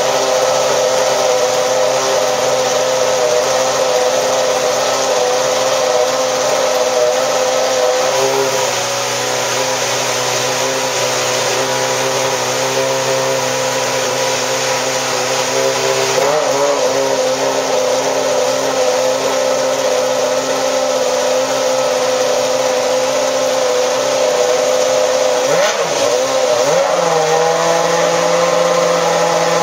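Ferrari F10 Formula One car's 2.4-litre V8 engine running steadily at a raised warm-up idle, with brief small wobbles in revs about sixteen and twenty-six seconds in.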